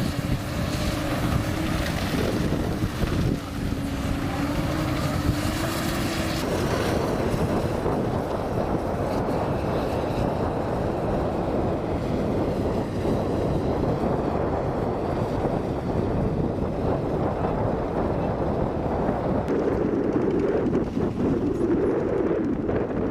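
Heavy diesel machinery running steadily, the engine of a Komatsu PC200 excavator loading a dump truck, with wind buffeting the microphone. A steady whine rides over it for the first six seconds or so, then stops.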